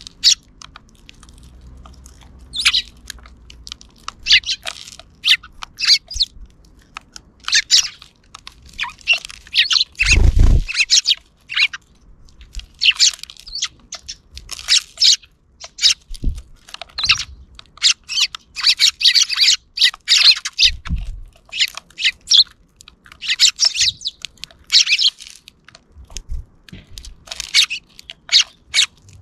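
Sparrows chirping: many short, high chirps in quick clusters, several birds calling over one another. A single low thump comes about a third of the way through, with a few fainter low bumps later.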